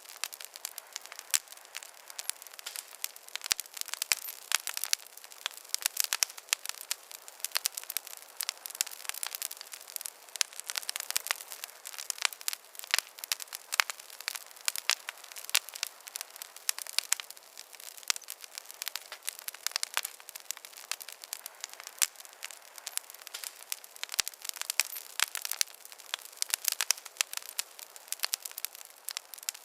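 Wood campfire crackling: a steady, irregular stream of small, sharp pops and snaps, with no low rumble beneath.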